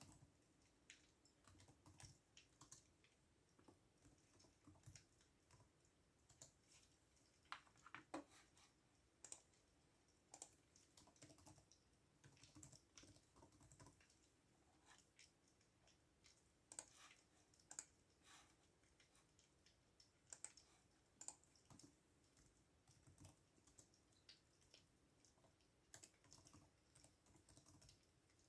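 Faint computer keyboard typing: irregular runs of keystroke clicks with short pauses between them.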